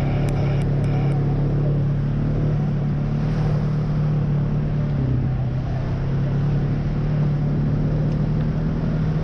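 ATV engine running at a steady speed while riding, its low drone holding one pitch without revving.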